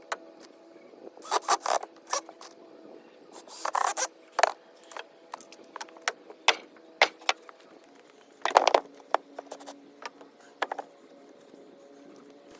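Workshop handling noises: scattered sharp clicks and knocks, with a few short scraping bursts, as tools and boards are handled during a bench build, over a faint steady hum.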